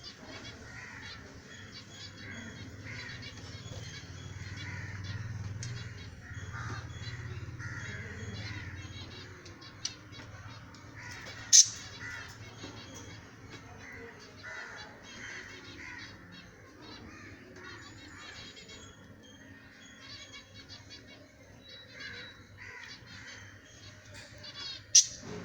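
Lovebirds chattering with rapid, continuous high chirps and squeaks. A short, sharp, very loud sound cuts in twice, once about halfway through and once near the end.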